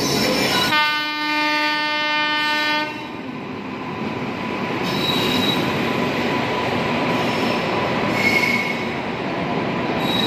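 A passenger train's locomotive sounds one horn blast of about two seconds, starting just under a second in. The train then rolls past close by with a steady rush of wheel and coach noise, and brief high wheel squeals about five and eight seconds in.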